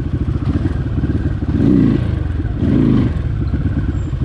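Dirt bike engine chugging at low speed over rough ground, with two short throttle blips about two and three seconds in.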